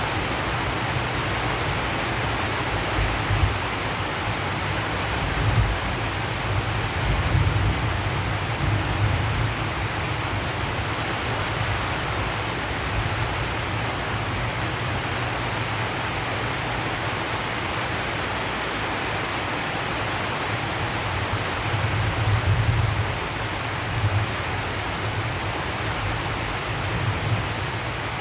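Steady rain on a zinc sheet roof: an even hiss, with a low rumble underneath that swells several times.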